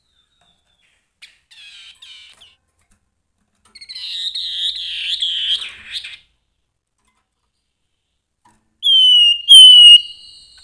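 Grey-headed babbler singing: a few faint chirps, then a two-second run of quick warbled notes, and near the end two loud clear whistles, each falling slightly in pitch.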